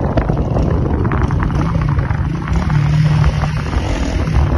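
A motor running steadily with a low rumble and a held hum.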